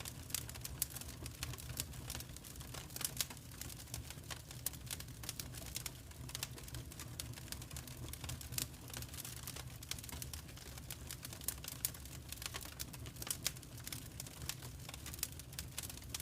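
Wood fire crackling, with frequent irregular pops and snaps over a low steady rumble.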